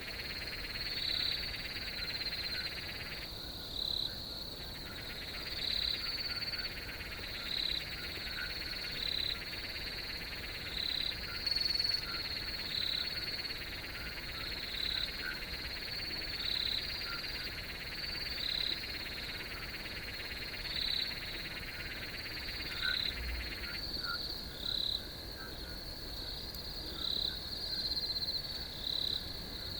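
Night insect chorus of crickets: a steady high trill with one cricket chirping in regular pulses about every second and a half. Beneath it a lower steady chorus drops out briefly near the start and stops about two-thirds of the way through.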